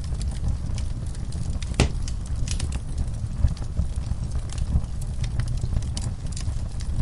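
Wood fire crackling, with scattered sharp pops over a steady low rumble; the loudest pop comes about two seconds in.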